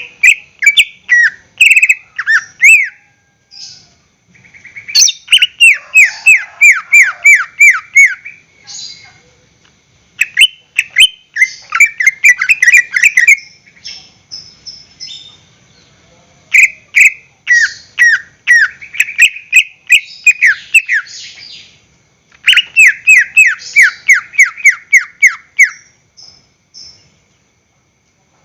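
Cucak ijo (greater green leafbird) singing loudly in phrases of rapid, repeated downward-sweeping whistled notes, each phrase lasting a few seconds with short pauses between.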